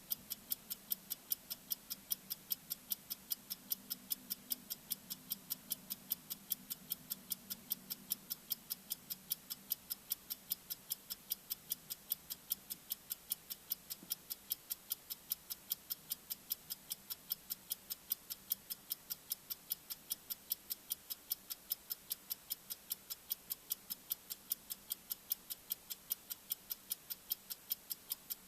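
Bomb-timer ticking sound effect: sharp, high-pitched tik-tik ticks at a rapid, even pace, with a faint low hum under the first several seconds.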